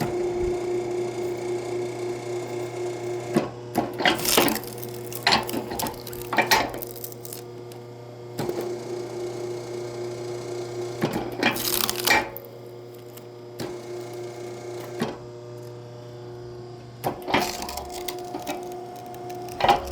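A steady mechanical hum that cuts out now and then, with several short bursts of clattering knocks over it.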